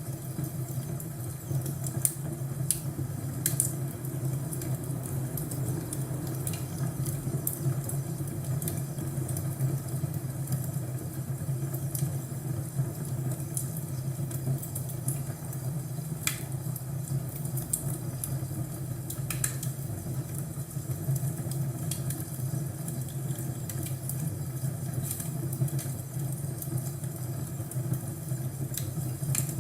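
Crackling fireplace: a steady low rumble of burning wood with sharp crackles and pops at irregular moments.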